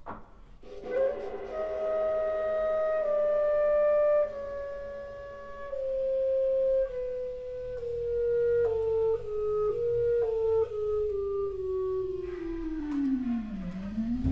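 Contemporary chamber ensemble music: a long held tone, wind-instrument-like, that slowly steps downward in small steps. Near the end it slides steeply down and turns back up.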